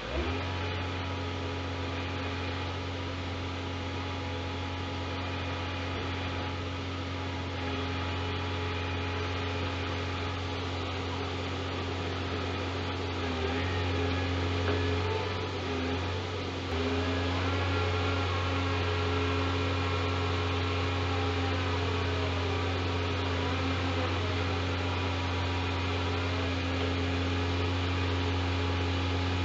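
Scania G410 truck running steadily with a deep, even hum, wavering briefly about halfway through and then going on a little louder.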